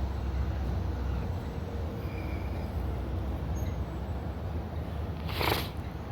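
Wind rumbling on the microphone, with a brief hissing rush about five seconds in.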